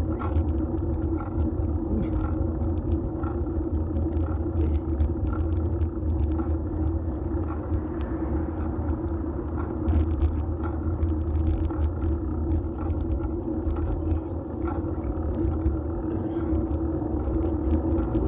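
Fixed-gear bicycle rolling along the road, picked up by a phone mounted on the bike: a steady rumble of tyres, road and wind, with small clicks and rattles from the bike.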